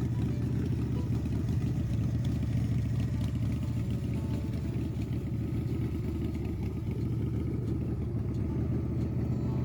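A 1998 Pro One custom motorcycle's engine running steadily without revving, an even low pulsing from the exhaust.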